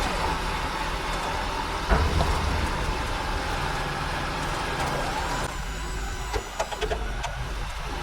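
Truck running and moving, a steady low rumble with road noise. A sharp knock comes about two seconds in, and a few clicks near the end.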